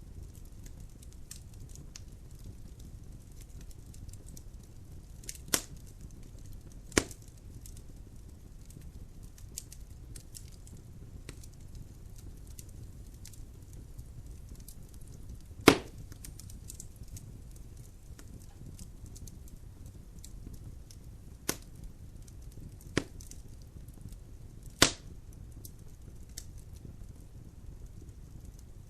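Logs burning in a fireplace: a low steady rumble of the fire with constant faint crackling, and six sharp pops of the wood, the loudest about halfway through.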